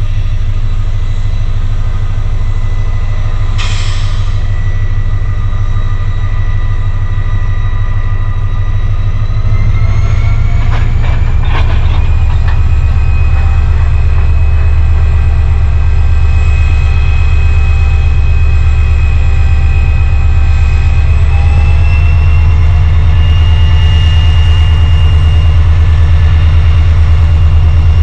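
Freight train of bulk tank wagons hauled by a locomotive passing slowly, with a loud, steady low rumble. A whine rises in pitch about ten seconds in and again past twenty seconds as the train gathers speed. There is one short sharp sound about four seconds in.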